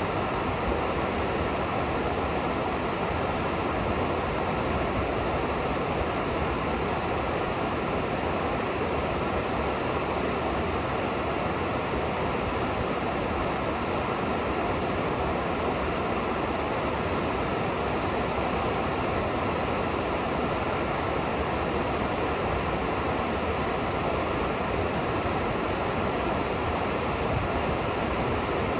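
River water rushing in a steady, unbroken roar of noise.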